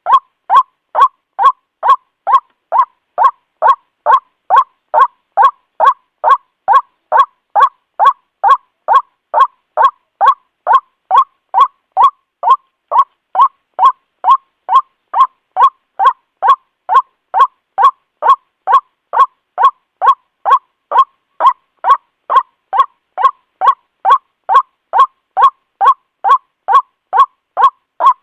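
White-breasted waterhen (ruak-ruak) calling over and over, an even string of short, loud 'kwak' notes at about two a second, without a break. This is a bird-trapping lure call, used to draw waterhens in.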